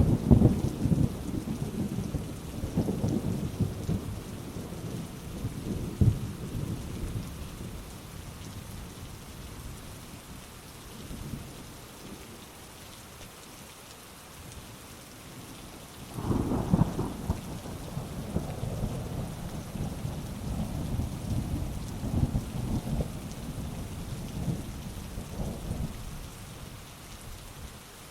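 Heavy rain falling steadily through a thunderstorm. A rumble of thunder dies away over the first several seconds, and about sixteen seconds in a second peal breaks and rolls on for about ten seconds.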